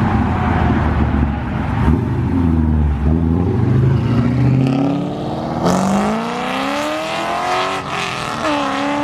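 A car engine rumbling low and loud, then accelerating hard from about halfway, its note climbing steeply, dropping briefly as it shifts and climbing again near the end.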